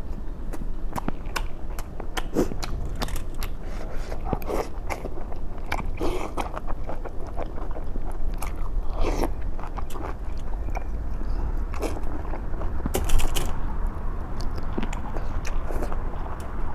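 Close-miked eating: a person chewing and biting food with many wet mouth clicks and smacks, one louder burst about 13 seconds in.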